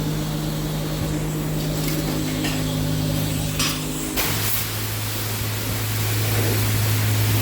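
Self-serve car wash bay's pump machinery humming steadily; about four seconds in the hum drops to a lower pitch and a hiss of spray rises, as the selected wash cycle starts.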